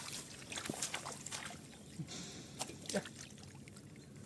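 Shallow muddy water sloshing and splashing in quick, irregular strokes, with sharp clicks and squelches, as hands work through the mud after catfish.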